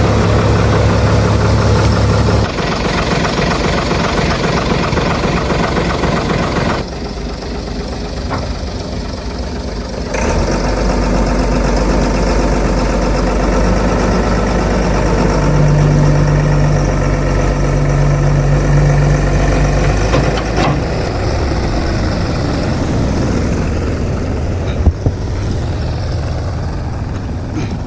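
Heavy diesel engines of construction machinery running, with the engine note and level changing abruptly several times.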